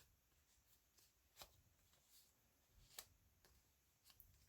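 Near silence: faint room tone with two small clicks and a few softer ticks from handling at the work table.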